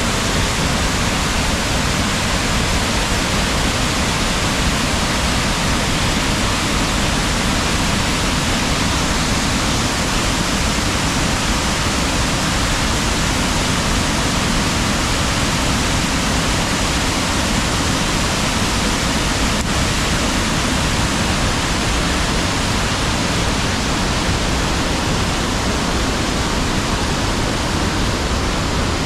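Water pouring over a river waterfall in a steady, unbroken rush.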